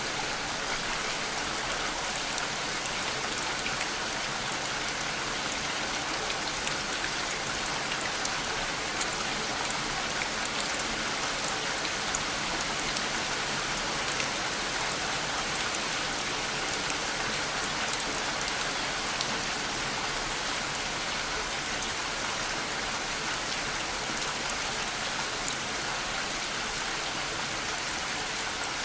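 Steady rain falling, an even hiss with many small drops pattering through it.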